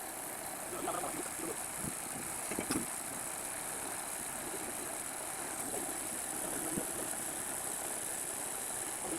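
Steady background running of an engine-like machine with a high hiss, and a few faint light clicks.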